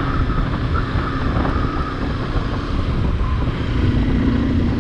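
Motorcycle on the move, its engine running under heavy wind buffeting on the microphone, with a faint steady whine that fades out about two seconds in.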